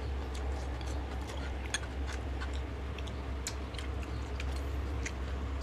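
Eating sounds close to the microphone: chewing, with scattered soft clicks and smacks, the sharpest about two seconds in and halfway through, over a steady low hum.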